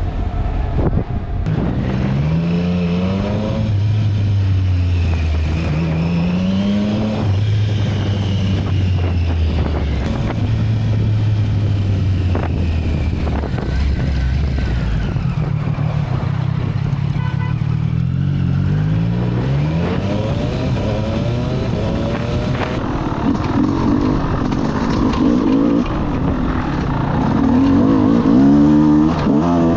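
Motorcycle engine accelerating through the gears: the pitch rises, drops at each shift and rises again, several times, over the rush of road and wind noise.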